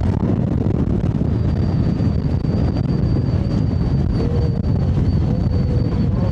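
Wind buffeting the microphone of a camera on a moving electric scooter: a steady, heavy rumbling noise. A thin, steady high-pitched whine joins about a second in.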